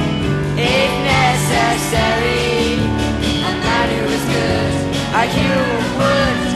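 A young solo singer performing a song over a steady instrumental accompaniment, the sung line wavering and gliding between held notes.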